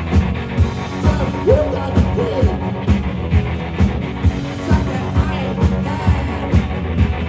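Live rock band playing a song, with a steady drum beat of about two hits a second and a singer over it.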